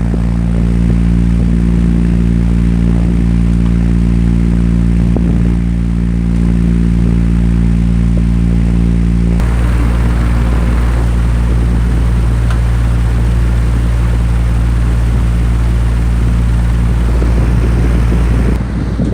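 Electric floor fans running: a steady motor hum with blade air rush. About nine seconds in the hum's upper tones fall away and the rush of air becomes stronger.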